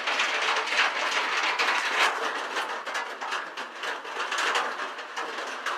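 Heavy rain on the shack's roof: a steady hiss with a dense, irregular patter of drops.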